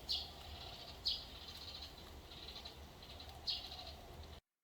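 Birds chirping: short falling high chirps at the start, about a second in and again about three and a half seconds in, with faint trills between them. The sound cuts off just before the end.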